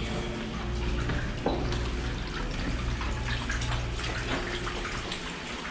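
Steady sound of running water, with a low hum underneath.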